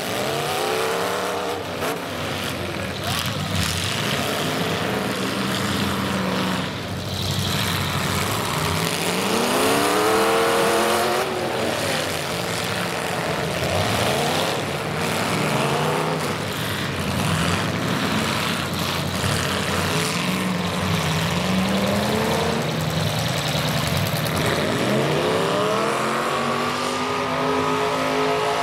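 Demolition derby cars' engines revving hard, climbing and dropping in pitch over and over, with several engines running at once over a dense din.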